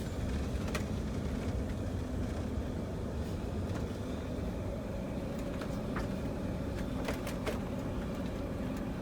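Steady low engine and road rumble heard from inside a moving vehicle's cab, with a few faint clicks or rattles.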